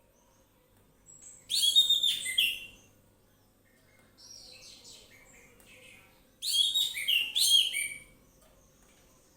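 Orange-headed thrush singing: two loud phrases of quick, varied, pitch-gliding notes, about five seconds apart, with a softer phrase between them.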